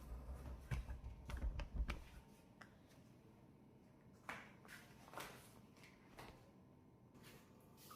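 Small clicks, taps and light knocks of hands handling cleaning things, a quick cluster with low bumps in the first two seconds, then a few scattered clicks.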